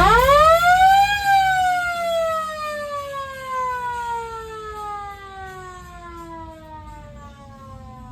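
A siren spins up sharply in about a second, then winds down slowly, its pitch falling and fading over the next six seconds.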